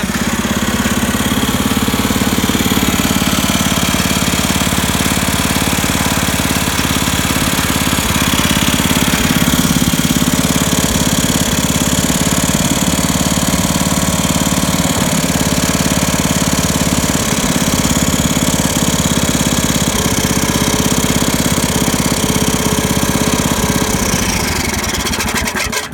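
Wheel Horse Work Horse garden tractor engine running steadily, then shut off right at the end. It runs smoothly without smoking, which the owner calls running real good.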